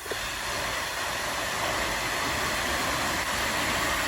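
Fountain water splashing, heard as a steady hiss.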